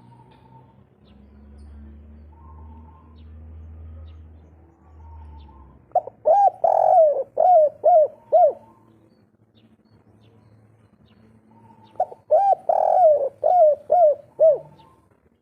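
Spotted dove (derkuku) singing its 'kuk 3' cooing song: two loud phrases, each a quick string of about six or seven short rising-and-falling coos, some six seconds apart, with fainter coos before them. The bird is in full breeding condition.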